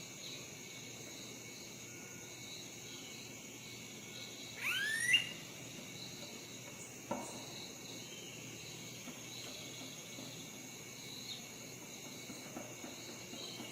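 Steady high-pitched chorus of crickets or other insects. A little over four seconds in, a short call rises steeply in pitch, the loudest sound here. A single sharp knock follows about seven seconds in.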